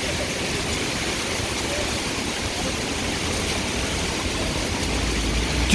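Heavy thunderstorm rain driven by strong wind, a steady loud rushing. A low rumble of wind buffeting swells near the end.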